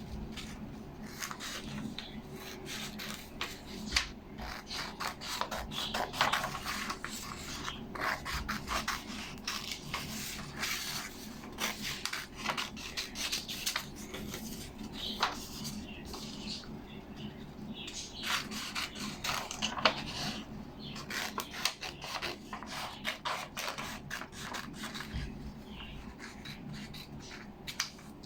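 Scissors cutting out printed paper-and-cardboard model parts: irregular snips and rasping scrapes of blade on paper, with the paper rustling as it is handled.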